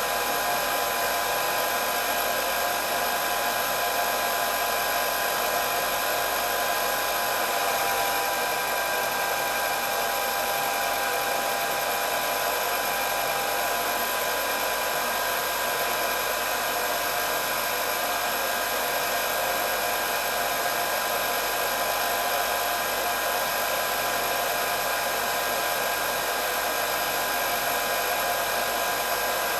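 Electric hair dryer running steadily: an even blowing whoosh with a constant motor whine over it, unchanging throughout.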